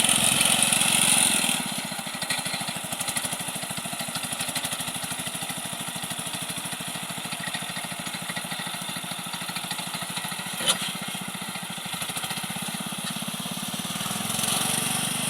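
Homemade minitractor's engine running, louder for the first second and a half, then settling to a steadier, lower note and rising again near the end. A single sharp click about ten seconds in.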